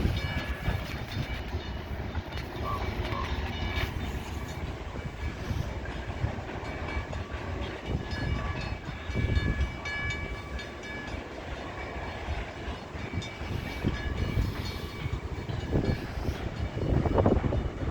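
Freight train of grain cars rolling past at speed: a steady low rumble with the uneven clatter of wheels over the rails, and faint high ringing tones from the wheels through the middle.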